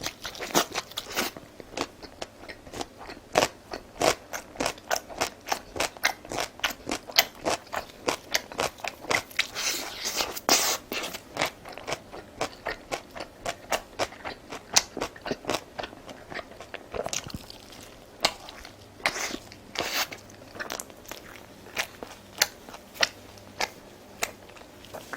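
A person chewing crunchy food close to the microphone, with rapid, sharp crunches that thin out to slower, sparser bites about two-thirds of the way through.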